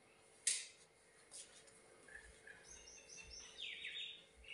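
Faint bird chirps: a run of short high notes from about two seconds in, followed by a few quick downward-sweeping calls. A brief soft swish comes about half a second in.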